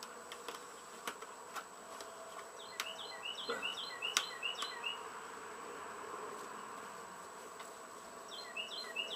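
A bird singing a rapid run of short, falling chirps, twice: about three seconds in and again near the end. A few sharp clicks come from the cap of a plastic oil jug being handled.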